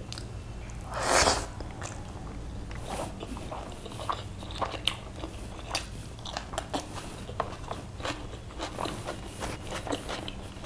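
Close-miked mouth sounds of chicken biryani being eaten by hand: chewing with many short wet clicks, and one louder noisy burst about a second in as a handful goes into the mouth. A steady low hum runs underneath.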